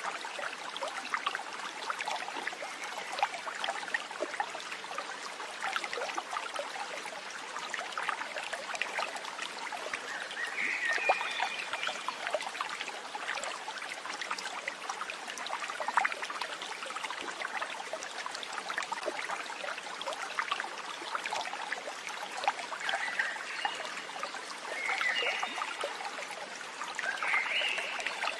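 Water of a stream trickling and babbling over stones, a steady crackling splash, with a few short chirping calls, one about a third of the way in and several near the end.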